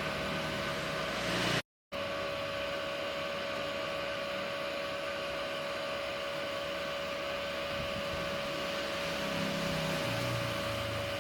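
Restored 18 kW industrial electric motor running at steady speed, a constant whine over a rushing hum. The sound cuts out for a moment just before two seconds in, then carries on unchanged.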